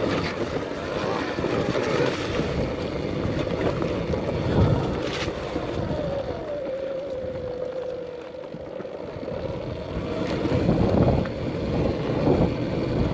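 Arctic Leopard XE Pro electric dirt bike being ridden on a dirt trail: a motor whine that drops in pitch about halfway through, over rumbling wind on the microphone, with a few knocks from the bike over the ground.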